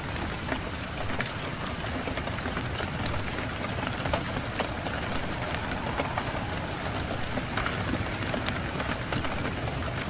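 Fireplace fire crackling, with frequent small sharp pops over a steady low rush of wind.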